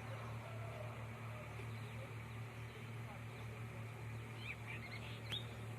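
Small songbirds giving a few quick, high chirps near the end, over a steady low hum.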